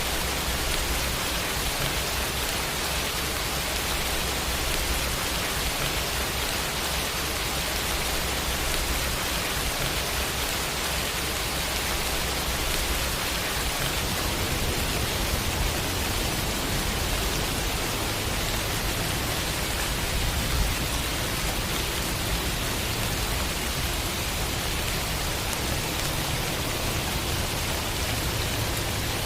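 Steady rain-sound effect: a dense, even hiss of rainfall with a low rumble underneath.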